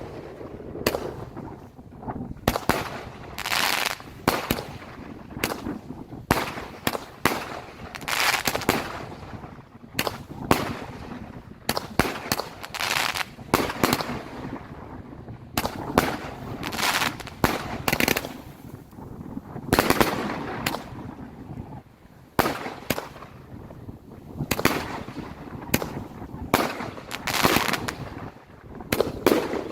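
Fireworks going off in a long, irregular barrage of sharp bangs and crackles, some coming in quick strings, each with a short echo.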